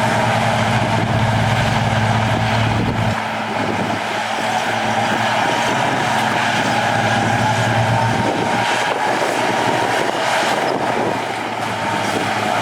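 Heavy earthmoving machinery's diesel engine running steadily, with a steady whine above it; the deep engine note drops back about three seconds in.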